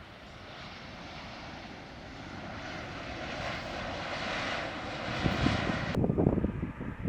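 Airliner's engines growing steadily louder as it approaches, then cut off suddenly about six seconds in. Low gusts of wind on the microphone are left behind.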